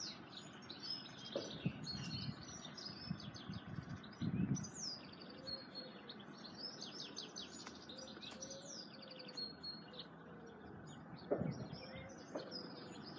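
Small birds chirping and trilling with quick high notes throughout, over faint outdoor background noise. A few soft low thumps are heard, one near the start, one about a third of the way in, and one near the end.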